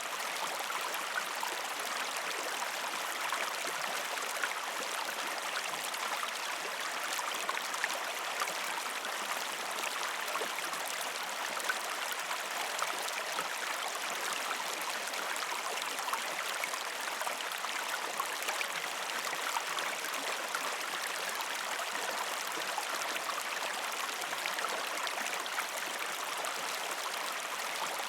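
Stream water flowing over rocks: a steady rushing wash, flecked with many small splashes and gurgles.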